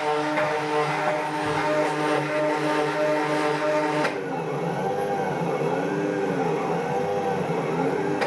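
Motors of a DIY gearbox-driven CNC machine running: a steady whine of several tones, which about halfway through turns into a whine rising and falling in pitch roughly once a second as the axes speed up and slow down on repeated moves.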